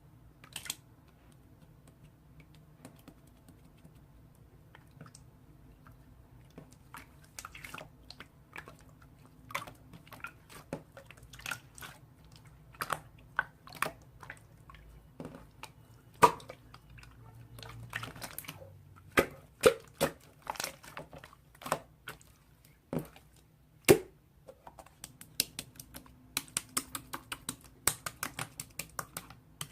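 Slime being pressed, stretched and poked by hand, making sharp sticky pops and clicks at irregular intervals, sparse at first and coming in quick runs near the end.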